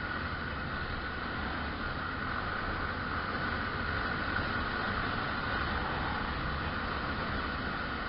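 Steady wind rush and road noise of a motorcycle ridden at speed, with its engine running underneath.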